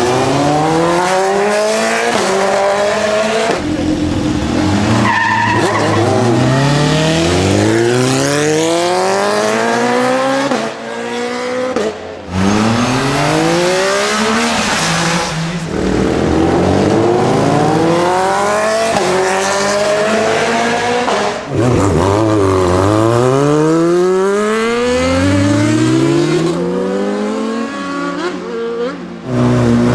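Sport motorcycle engines accelerating hard, the revs climbing steeply and dropping at each gear change, over and over, with brief lulls between runs.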